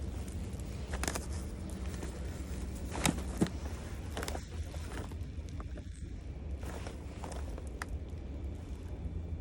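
Footsteps with scattered sharp clicks over a steady low rumble; the loudest are two clicks about three seconds in.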